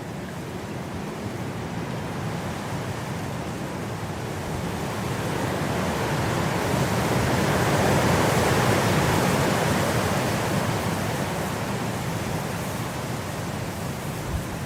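Blizzard wind blowing in a steady rush, a gust swelling to its loudest about halfway through and then easing off.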